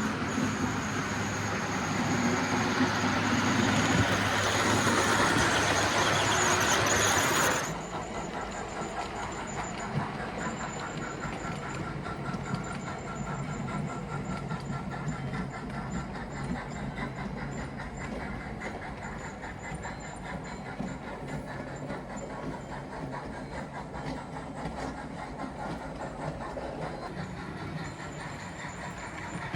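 Model train of a Bachmann Spectrum K4 and passenger cars running on the track, with a steady rolling rumble and a thin, high squeak from the wheels, which still squeak though they were just lubricated. It is loud for the first several seconds, then drops suddenly to a quieter run, the squeak coming and going.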